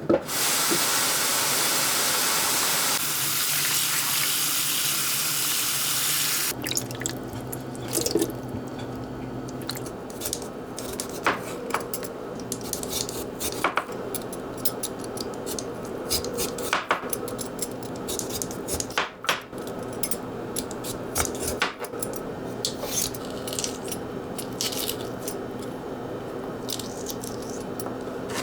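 Kitchen tap running into a sink for about six seconds, then shut off. Scattered light clinks and knocks follow over a steady low hum.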